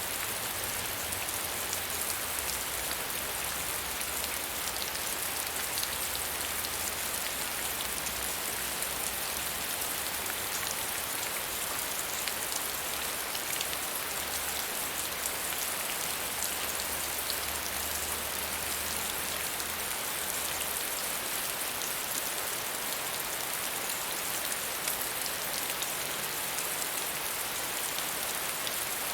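Steady medium rainfall: an even hiss of rain with fine patter of drops on a surface, unchanging throughout.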